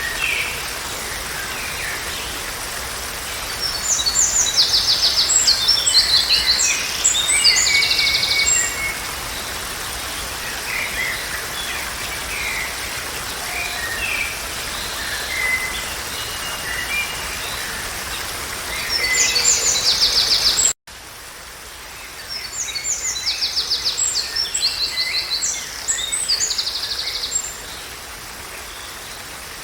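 Songbirds singing in fast high-pitched trills and chirps over a steady background hiss. The sound drops out for an instant about 21 seconds in and resumes with a quieter background.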